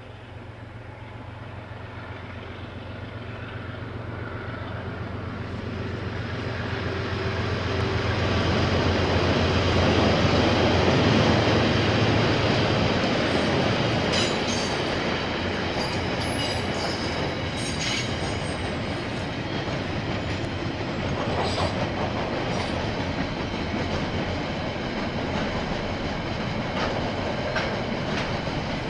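KiwiRail diesel-hauled train passing: a low engine hum builds to its loudest about ten seconds in, then the wagons roll by with a steady rumble and the clickety-clack of wheels over rail joints.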